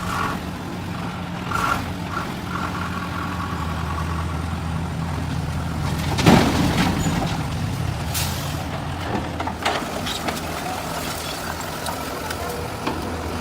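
Truck engine running steadily with a low hum. About six seconds in there is a loud burst of hissing air, like an air brake, followed by shorter hisses a couple of seconds later.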